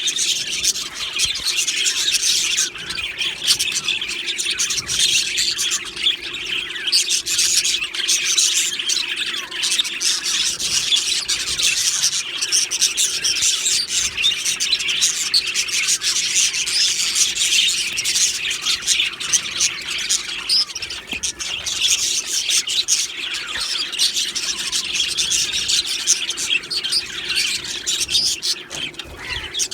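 A colony of budgerigars (budgies) chirping and chattering continuously, many birds at once in a dense overlapping warble.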